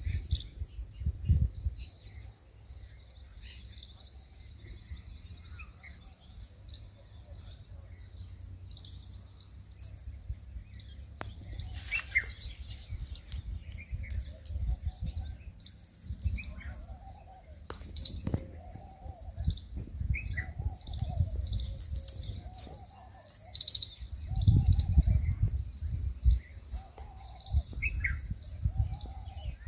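Small birds chirping and calling, with low gusts of wind rumbling on the microphone. From about halfway through, a lower call repeats roughly once a second.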